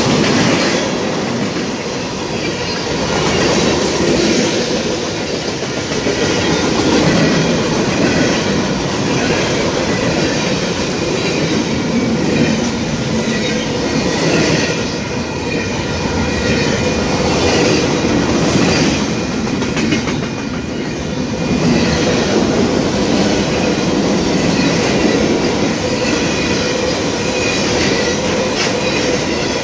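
Freight train cars rolling past close by: a steady rumble of steel wheels on rail with clickety-clack from the trucks, swelling and easing a little as cars go by. Thin steady tones ring above the rumble.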